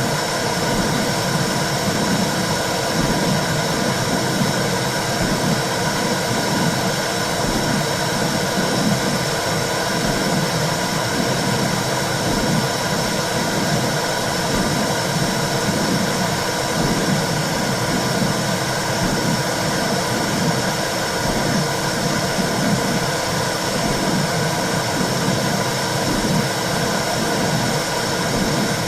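Womb sound for soothing a baby: a steady whooshing noise with a slow, even, rhythmic low pulse running through it.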